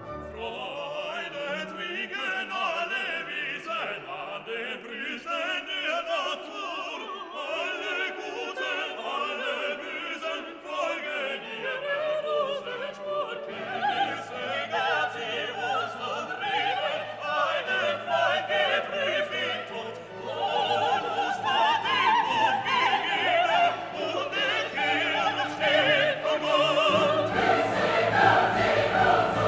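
Classical music with operatic singing, voices with wide vibrato over an orchestra, growing somewhat fuller in the second half.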